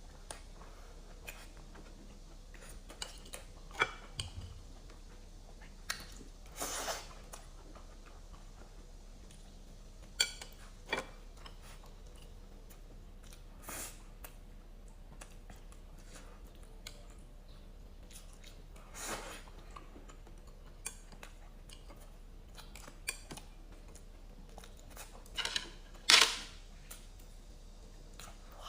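Sparse eating sounds: scattered sharp clicks and short bites and chews, with a few louder ones near the end, over a faint steady low hum.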